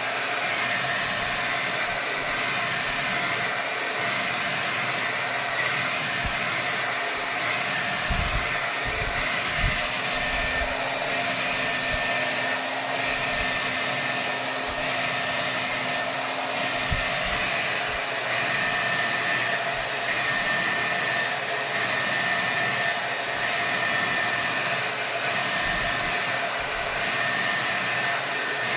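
Hair dryer blowing at full power: a steady rush of air with a faint steady whine, and a few soft low thumps.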